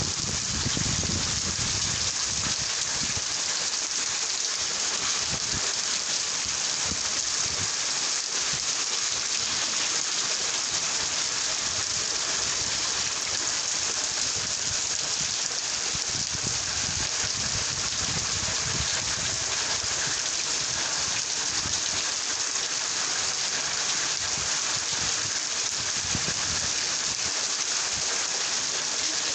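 Rain falling steadily, an even, dense hiss, with some low rumbling near the start.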